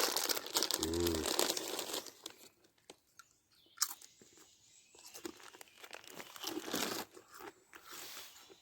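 A crisp packet rustling and crinkling for about two seconds, with a brief hum about a second in. Then come quieter, scattered crunches of crisps being eaten.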